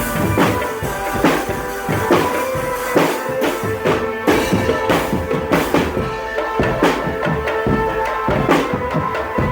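A marching drum band playing: bass and snare drums beat a steady rhythm, with one heavy stroke about every second. A steady melodic tone is held over the drums.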